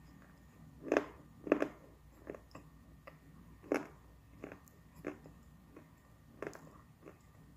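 Close-up chewing of dry brown clay: a string of short, crisp crunches about one to two a second, the two loudest about a second in.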